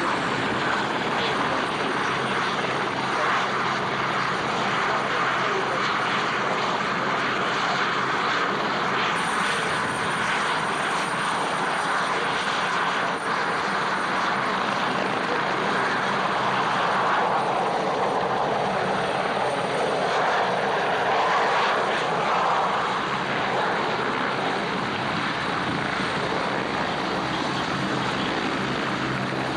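Aircraft engine noise at an airshow: a steady, continuous drone that sinks lower in pitch and comes back up about two-thirds of the way through.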